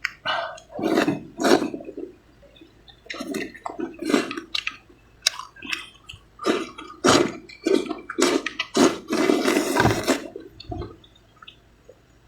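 A person slurping vermicelli noodles close to the microphone, in a series of short wet slurps and chews, with one longer slurp about three quarters of the way in.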